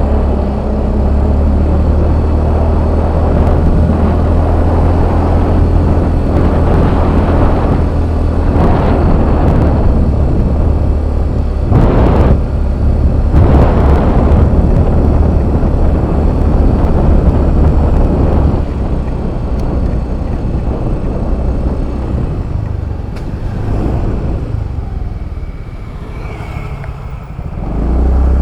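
A Yamaha Fazzio 125 cc scooter being ridden, its engine and the rush of wind on the microphone blending into a loud, steady rumble. The noise eases off about two-thirds of the way through, then comes back up at the very end.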